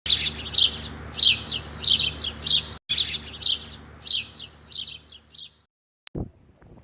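A bird chirping: about ten short, downward-sliding chirps at an even pace of roughly one every 0.6 s, getting fainter and stopping abruptly near the end, over a steady low hum. A single click follows.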